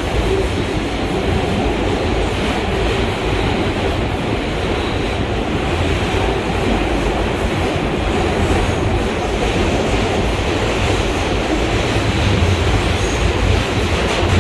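An R143 subway car running between stations, heard from inside the car: a steady rumble of wheels on rail with a faint steady motor tone.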